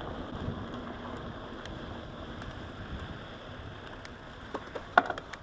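Steady rushing noise from a mountain bike being ridden, with a few sharp clicks and knocks near the end.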